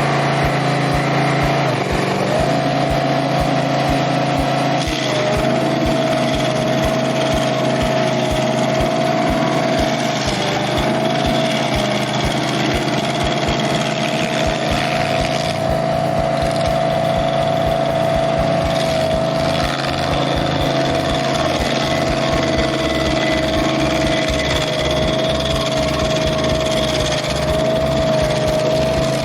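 Barreto 30SG track-driven stump grinder running, its gas engine making a steady drone with a strong high whine on top that wavers slightly now and then.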